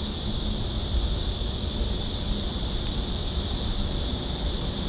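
Steady, unbroken high-pitched insect drone, with a low wind rumble on the microphone.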